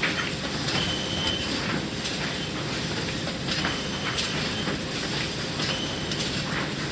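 Sawmill machinery running with a steady metallic clatter and rattle, broken by two brief high-pitched metal squeals, one about a second in and one near the end.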